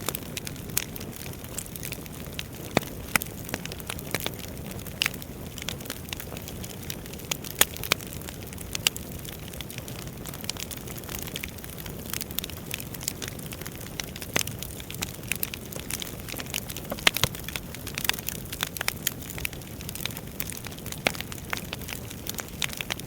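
Wood fire burning in a fireplace, a steady low rush of flames with irregular crackles and sharp pops, a few of them louder.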